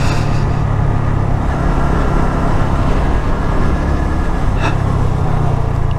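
A Honda MSX125SF (Grom) 125 cc single-cylinder four-stroke engine running steadily under way, heard from on the bike with rushing road and wind noise. There is a brief click a little over four and a half seconds in.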